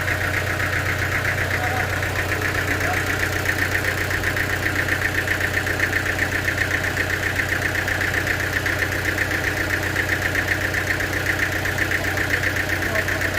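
Sawmill machinery running steadily, an engine-like drone with a low hum and a fast, even pulsing that does not change.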